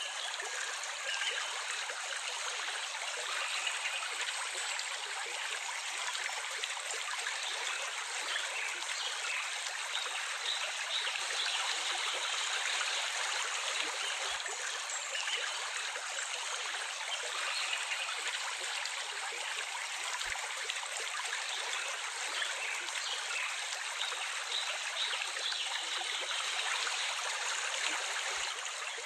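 A small stream of water running and trickling, steady and unbroken.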